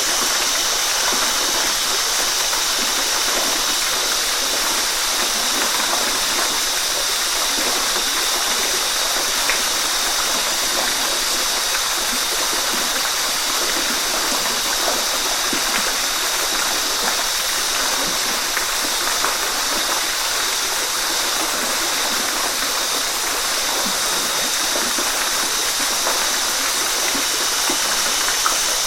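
Waterfall: falling water rushing steadily without a break, a hiss that is strongest in the upper range with little deep rumble.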